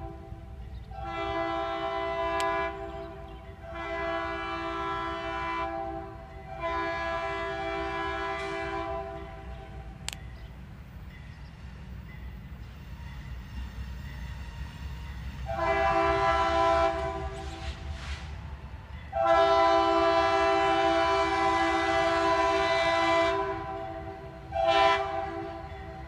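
A diesel freight locomotive's multi-chime air horn sounds a series of long blasts over the low rumble of the train. A gap of several seconds falls near the middle. Then come two more long blasts and a short one near the end, the start of a grade-crossing signal.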